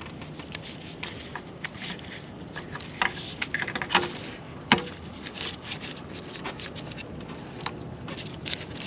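Scattered clicks and light knocks of tools and parts being handled during car repair work, with one sharper knock about halfway through.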